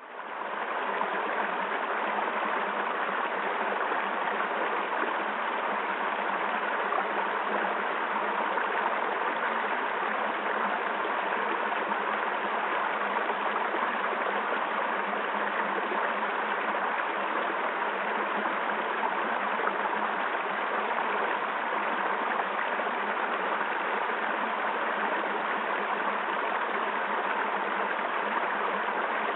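Stream water flowing steadily, an even rushing sound that fades in at the start and fades out at the end.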